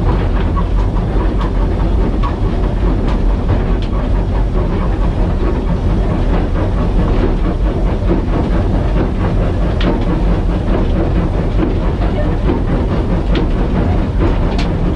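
Steam locomotive running steadily on the line, heard from the footplate: a continuous rumble of the engine and wheels with a few faint clicks from the rail joints.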